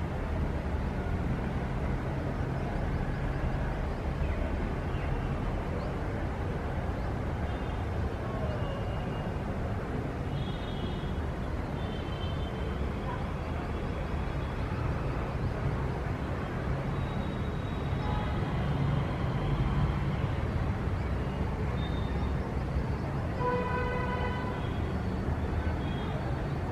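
Steady rumble of city traffic. About 23 seconds in, a vehicle horn sounds once for a second or so, with short, faint high tones scattered around it.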